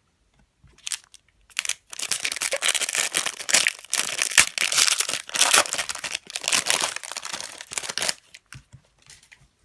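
A trading-card pack's foil wrapper being torn open and crinkled: a dense crackly rustling from about a second and a half in until about eight seconds, with a few lighter crinkles before and after.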